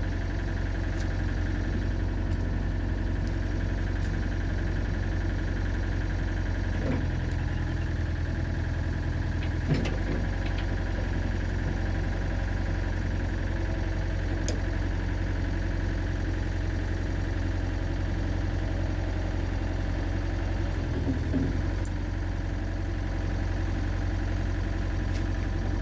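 Excavator engine running steadily. Its low note shifts for a few seconds about seven seconds in, with a sharp knock near the end of that change.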